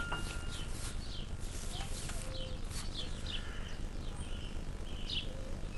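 Small birds chirping in short repeated calls over a steady low background rumble of outdoor ambience.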